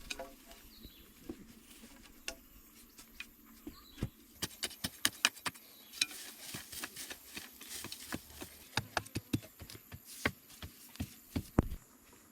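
Irregular light clicks and knocks, sparse at first, with a louder knock about four seconds in, then coming thick and fast until near the end.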